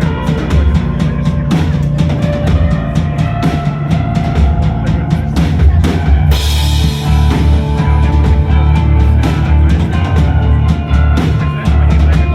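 Live rock band playing, with a drum kit beating steadily over heavy bass. A bright crash comes in about halfway through.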